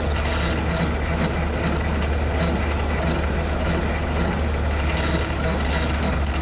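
Tractor engine running steadily at working speed, driving a bush hog rotary cutter while mowing, a constant low drone.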